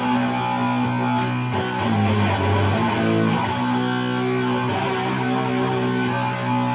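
Electric guitar played through an HM-2-style heavy-metal distortion pedal. It plays thick, held distorted chords that change a few times.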